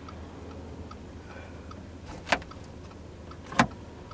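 Audi A5 2.0 TFSI turbo four-cylinder petrol engine idling, heard inside the cabin as a low steady hum. Over it comes a faint regular ticking, then two sharp clicks, a little over two seconds in and again about a second later, as controls on the centre console are worked.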